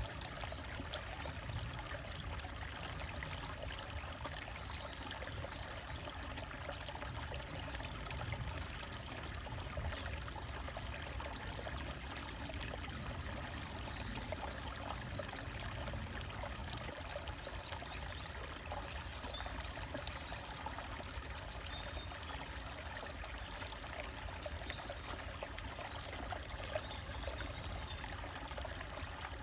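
Small stream trickling and splashing steadily over rocks, with occasional faint bird chirps.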